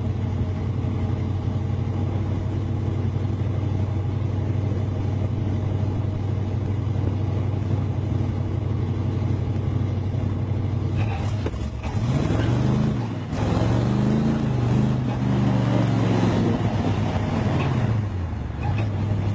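Big-block Chevy 454 V8 in a Toyota pickup running steadily, then from about twelve seconds in revving hard, its pitch climbing and dropping several times, before settling back to a steady run near the end.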